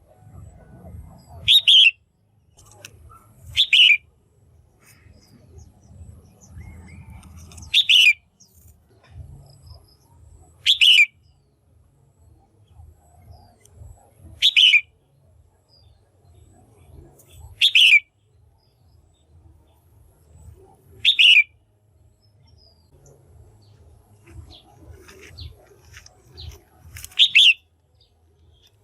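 Female red-whiskered bulbul giving a short, loud call eight times, several seconds apart, over a faint low rumble. The female's call is one used to excite male bulbuls or for pairing them.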